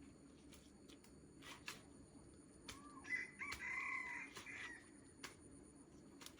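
A rooster crowing once, a single call about a second and a half long beginning about three seconds in, with a few faint clicks around it.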